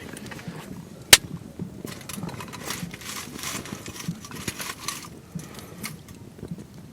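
Small wood campfire crackling faintly with scattered small pops, and one sharp knock about a second in.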